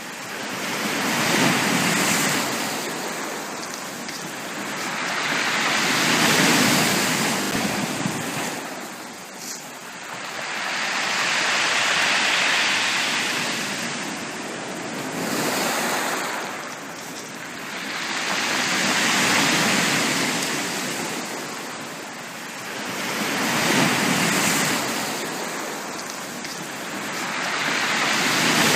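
Ocean waves on a beach, rising and falling in slow, even swells about every four to six seconds.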